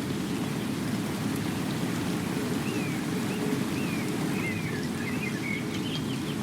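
Steady rain falling, with a few faint high chirps in the second half.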